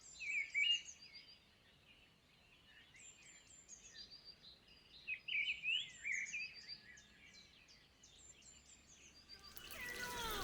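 Small birds chirping and singing, with many short, high calls and quick falling notes. The calls come in clusters, busiest about half a second in and again midway through.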